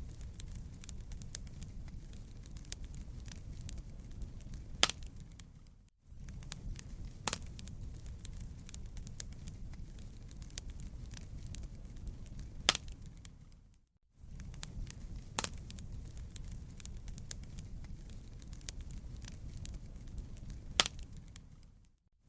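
Wood fire crackling in a fireplace: a steady low rumble of flames with scattered sharp crackles and a few louder pops. The sound dips out briefly twice and comes back.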